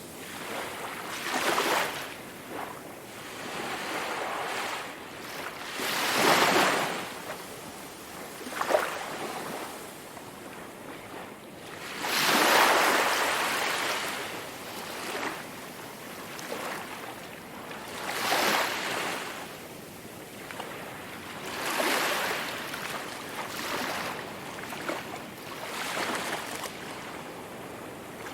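Sea waves breaking and washing up on a shore, one surge every few seconds, each swelling and then fading back.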